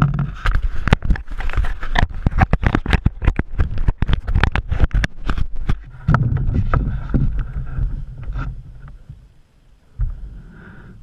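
Canoe knocking and clattering: a quick run of sharp knocks for about six seconds, then a low rumble that fades away.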